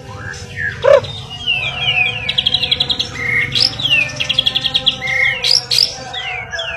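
White-rumped shama (murai batu) singing a varied, loud song: runs of quick falling whistles, fast rattling trills and short rising notes, delivered in bursts with brief pauses.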